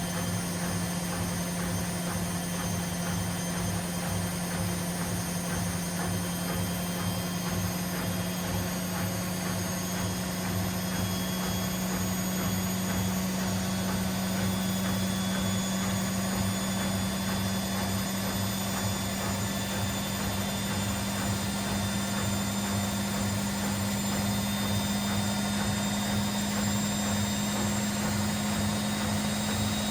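Washing machine in its fast spin: a steady motor hum and whine whose pitch creeps slowly upward as the drum holds high speed.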